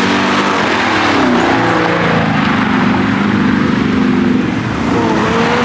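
A car engine revving up: its pitch climbs over the first second or so, then holds at steady high revs before easing off near the end.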